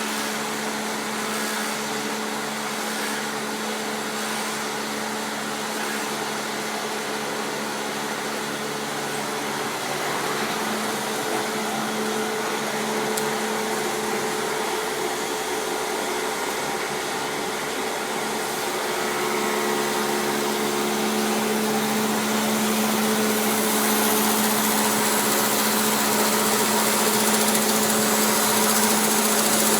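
Taiga OS-1 electric log-rounding machine running steadily, a constant motor hum and whine over a wide rushing noise, growing louder in the second half.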